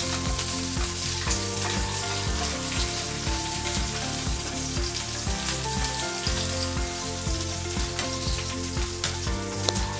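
Minced garlic and cherry tomatoes sizzling steadily in hot olive oil in a nonstick frying pan, stirred now and then with a slotted spatula, with a sharp click near the end. Background music plays underneath.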